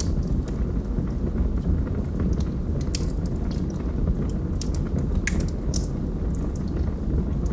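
Wood logs burning in a fireplace: a steady low rush of flame with scattered sharp crackles and pops, a few louder ones in the middle.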